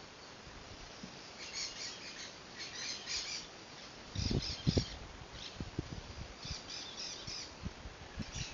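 Birds calling in short chattering bursts of rapid repeated high notes, a burst every second or so. Low thumps break in now and then, the loudest about four to five seconds in.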